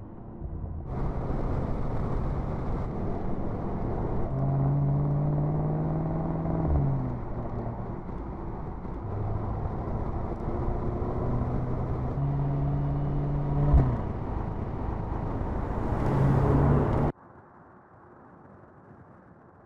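Mercedes-AMG SL 63's twin-turbo V8 accelerating in surges, the revs climbing and dropping twice, with a last surge before the sound cuts off suddenly about seventeen seconds in.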